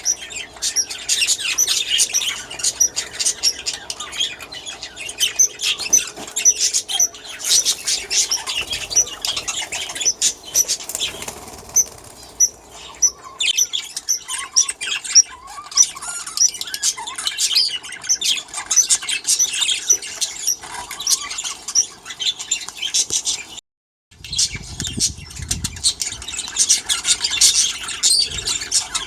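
A flock of budgerigars chattering and chirping continuously, with wing flaps as young birds fly about the aviary. The sound drops out for a moment about three-quarters of the way through.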